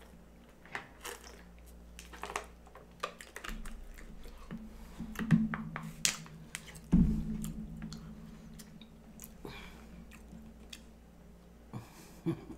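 A person chewing and drinking water close to the microphone: many small wet mouth clicks and smacks, with two louder knocks about five and seven seconds in.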